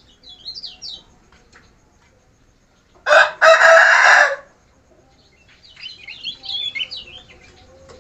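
Kecial kuning songbird singing in quick high chirps at the start and a rapid twittering warble near the end. In the middle one loud, harsh, drawn-out cry, the loudest sound here, lasts about a second and a half.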